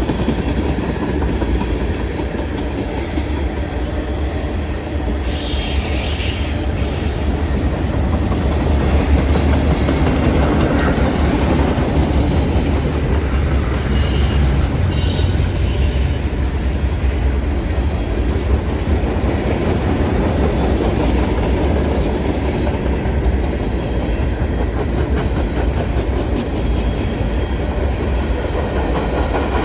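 Train rolling past with a steady low rumble, its wheels squealing in short bursts about five seconds in, again around nine seconds and around fifteen seconds.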